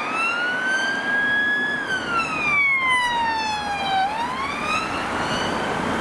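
Emergency vehicle siren on a slow wail: it rises, holds briefly, falls steadily for a couple of seconds, then rises again.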